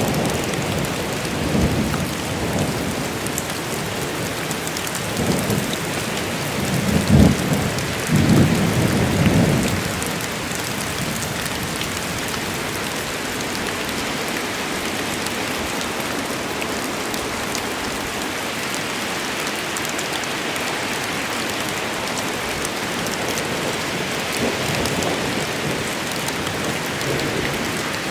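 Thunderstorm: steady heavy rain with thunder rumbling low through the first third, loudest about seven to nine seconds in, then rain alone.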